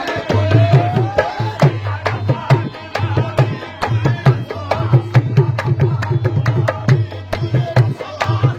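Qawwali music: a dholak hand drum playing a fast, driving rhythm with deep bass strokes under crisp high strokes, and a melodic line gliding over it in the first second or so.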